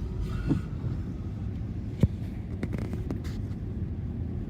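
Steady low rumble of a moving car, with a single sharp click about two seconds in and a few fainter ticks a second later.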